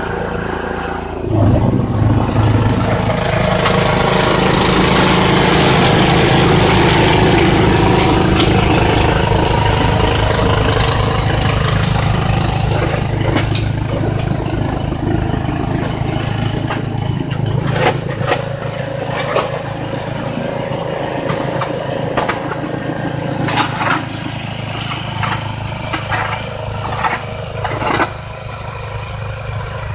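Snowblower's small petrol engine running steadily under load. It picks up about a second in, with a few sharp knocks and clatters in the second half.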